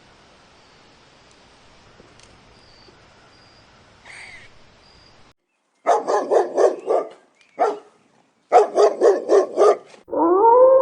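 A dog barking: a quick run of sharp barks, one lone bark, then another quick run, after several seconds of faint hiss. Near the end a long tone rises and then holds steady.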